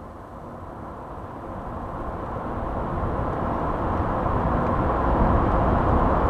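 Sound effect of an approaching car: engine and road noise growing steadily louder as the car nears.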